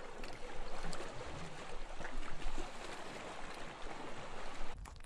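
Underwater water noise: a steady rushing hiss with faint crackles, which cuts off suddenly shortly before the end.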